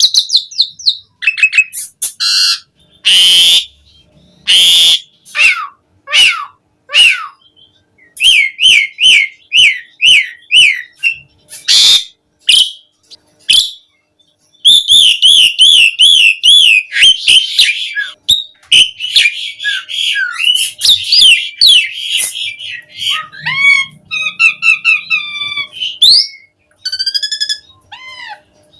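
Asian pied starling (jalak suren) in full, vigorous song: harsh rasping calls, fast runs of repeated chirping notes, and clear whistled glides, with short pauses between phrases.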